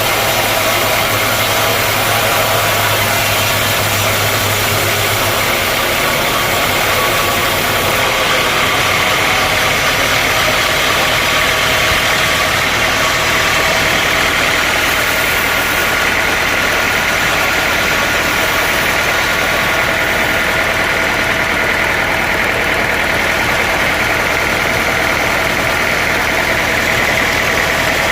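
Sawmill machinery running: a loud, steady mechanical noise with a constant whine.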